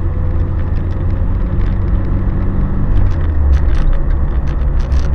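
Car running on the road, heard from inside the cabin: a steady low engine and tyre rumble with scattered light clicks and knocks.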